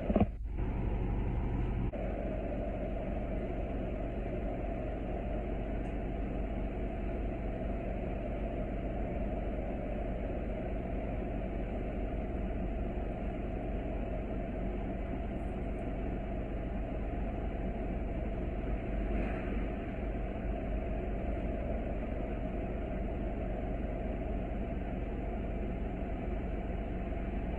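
Steady engine and road noise of a bus, heard from inside its cabin, with a low, even rumble and hum.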